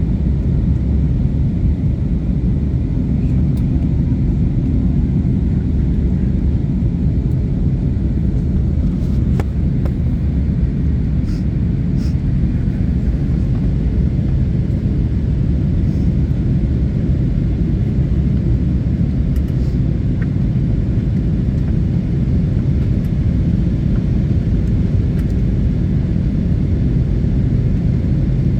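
Airliner cabin noise during the approach to landing: the steady low rumble of the jet engines and the air rushing past the fuselage, heard from a window seat inside the cabin.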